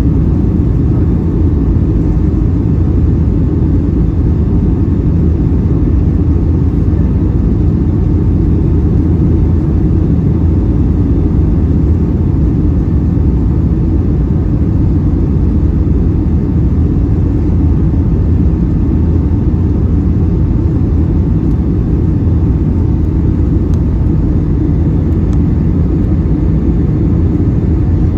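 Steady low rumble of engine and airflow noise inside the cabin of a Boeing 757-300 airliner, heard from a passenger seat.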